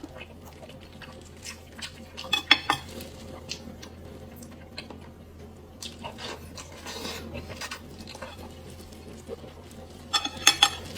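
Utensils clinking against a dish during eating, in two short clusters of sharp ringing clinks, about two seconds in and again near the end, with lighter scattered taps between.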